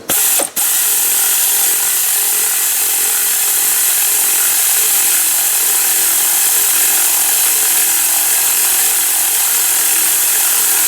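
A power tool running steadily as it drives a CVT housing bolt down. It stops briefly about half a second in, then runs on without a break.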